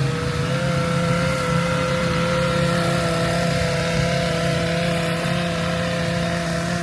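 A vehicle engine idling steadily, a constant even hum with no revving.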